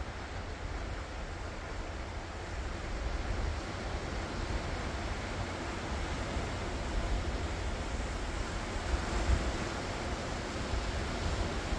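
Ocean waves washing ashore, a steady surf that swells a little after the first few seconds, with wind rumbling on the microphone.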